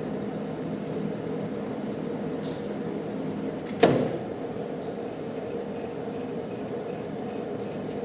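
Manual metal lathe running with a steady hum, and one sharp knock with a brief ring about four seconds in.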